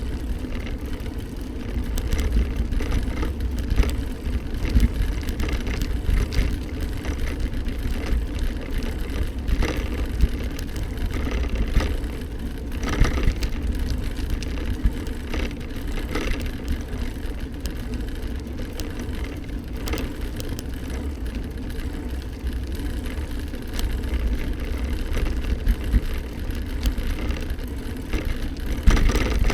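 Steady rumble of a moving bike on the road, with low wind noise and occasional brief knocks from bumps.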